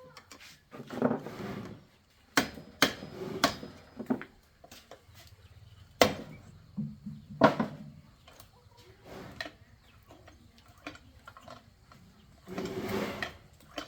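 Irregular knocks and clatter: several sharp strikes at uneven spacing, the loudest a little past the middle, with short scraping rustles about a second in and near the end.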